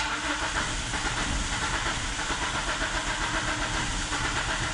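2003 Dodge Neon four-cylinder engine being cranked by the starter on a cold start. It starts suddenly and turns over with a steady, fast, even rhythm, struggling to catch.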